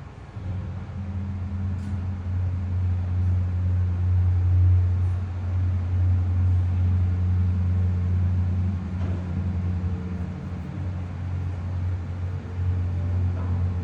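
Modernized hydraulic elevator's pump motor running as the car travels up: a steady low hum that starts just after the beginning, with a short dip about ten seconds in and a few faint clicks.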